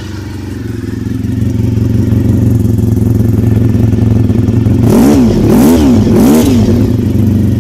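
Honda RVF400's V4 engine idling through its exhaust, then blipped three times in quick succession about five seconds in, each rev rising and falling, before settling back to idle.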